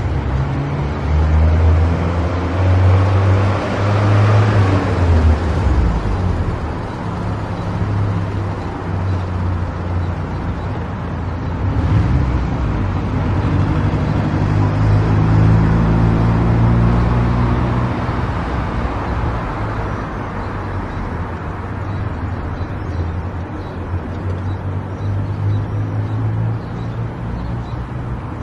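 A car driving on a highway: steady road noise over a low engine drone, swelling louder twice.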